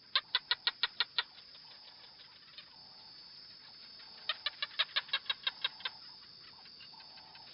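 A bird, likely a chicken or other fowl, calling in two quick runs of sharp repeated notes, about seven in the first second and about ten more around the middle. Fainter, lower calls sound between the runs.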